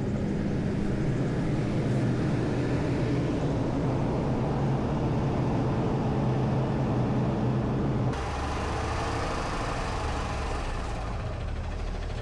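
Heavy truck's diesel engine idling steadily, most likely run to build up air pressure for its air brakes. About eight seconds in the sound changes abruptly to a lower, steadier engine note.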